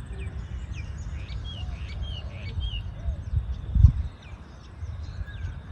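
Several small birds chirping, with many short notes that glide up and down, over a steady low outdoor rumble. A louder low thump comes about two-thirds of the way through.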